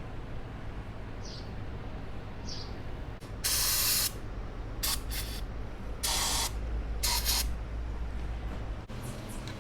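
Aerosol cleaner sprayed into a motorcycle throttle body in about five short hissing bursts, the first and longest starting about three and a half seconds in.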